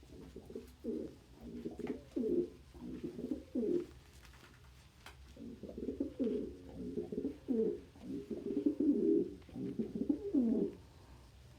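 Domestic pigeons cooing in a string of low coos, in two runs with a short pause between them.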